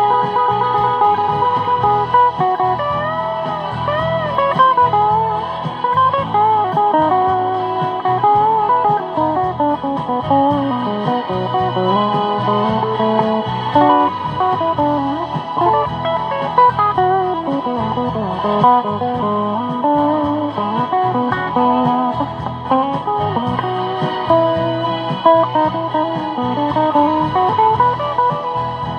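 Guitar music: a guitar plays a melodic line with bending and sliding notes over a steady low accompaniment.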